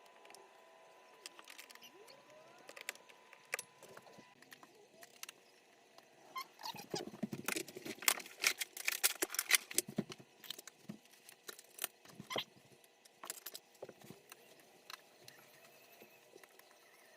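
Irregular clicks, taps and rattles of plastic and metal parts being handled while an LED TV is taken apart, busiest about halfway through.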